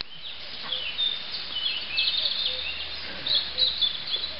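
Small birds chirping and twittering: quick runs of short high chirps over a steady outdoor hiss, busiest about two seconds in and again near the end.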